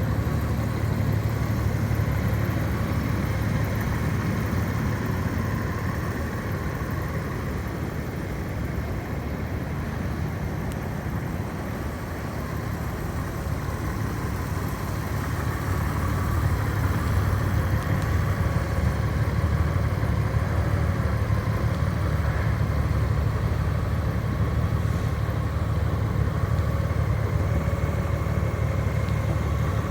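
Honda Gold Wing's flat-six engine idling steadily, a little louder in the second half.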